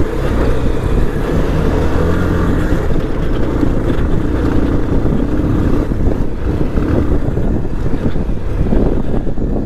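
Motorcycle engine running steadily while being ridden on a rough dirt road, its pitch shifting a little with the throttle.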